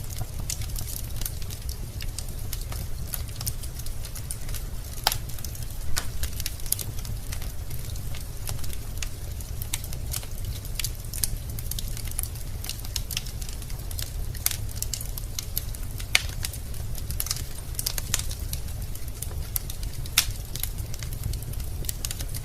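Wood fire burning in a fireplace: logs crackling with irregular sharp pops, a few louder snaps, over a low steady rumble.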